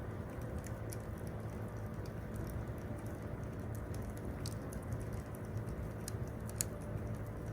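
Campfire wood crackling: irregular sharp pops and ticks over a steady low background, with one louder pop near the end.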